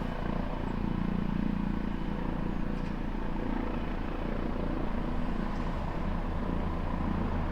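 Helicopter running steadily, its rotor and engine giving an even low pulsing drone with no rise or fall.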